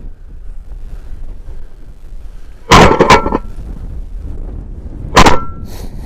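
Two shotgun shots about two and a half seconds apart, each loud and sharp with a short echo, over steady wind buffeting the microphone.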